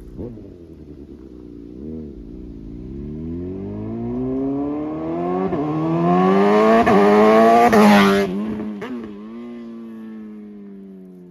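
A 2020 Suzuki GSX-R750's inline-four engine with a slip-on exhaust, accelerating hard so its pitch and volume climb for several seconds, with brief dips along the way. About eight seconds in it peaks and the pitch drops sharply, then the note falls away and fades.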